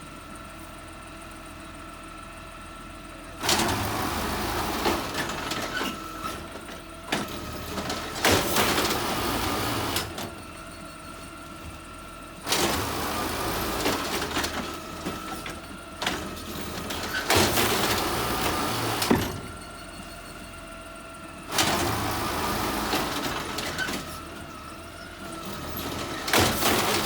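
Garbage truck idling, broken three times, about every nine seconds, by loud stretches of noise with knocks in them, typical of its loader lifting and dumping carts into the body as it revs under hydraulic load.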